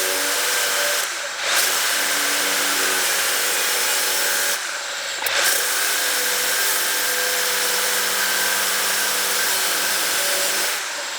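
Cordless angle grinder cutting through steel chassis metal with a nearly worn-out cutting disc, running steadily with a harsh grinding hiss and cutting slowly. It eases off briefly twice, about one second and about five seconds in, and stops near the end.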